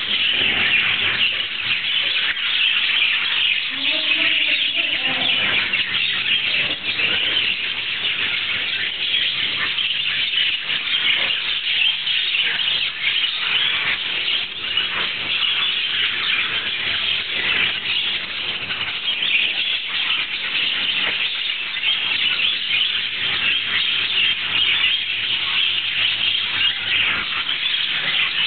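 A large flock of lovebirds in a breeding aviary chattering and screeching together: a dense, unbroken chorus of short, high calls that overlap throughout.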